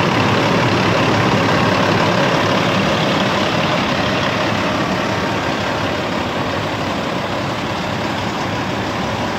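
Kenworth W900 heavy truck's diesel engine idling steadily.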